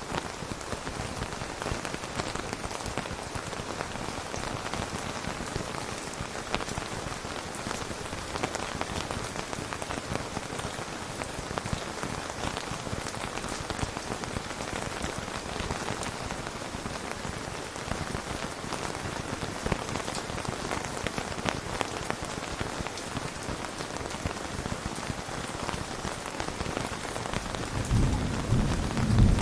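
Steady, even rain hiss. A low rumble of thunder starts near the end and grows louder.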